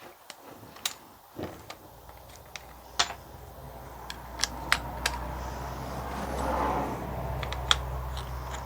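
Scattered sharp clicks and knocks of workpieces and tools being handled during assembly, over a low steady machine hum that builds from about two seconds in.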